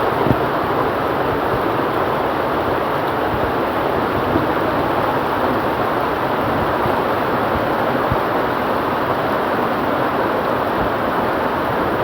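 Steady heavy rain falling, with a few brief sharp taps from drops among it.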